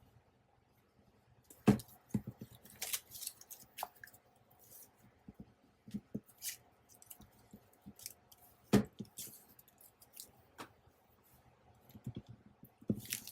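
Paper and craft supplies being handled on a tabletop: scattered rustles, taps and knocks, with the sharpest knocks about two seconds in and near nine seconds.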